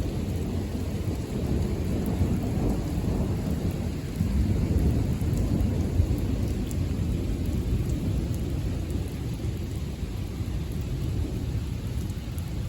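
Thunder rumbling over steady rain, swelling louder about two seconds in and again around the middle.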